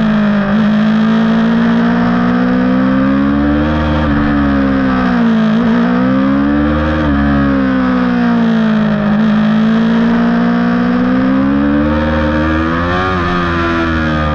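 Yamaha YZF-R6's inline-four engine at high revs on track, its pitch climbing under throttle and dropping off into the corners about three times.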